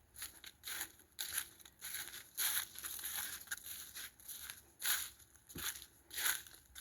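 Footsteps crunching on rock and grit of a trail, an irregular string of scuffing steps about one or two a second.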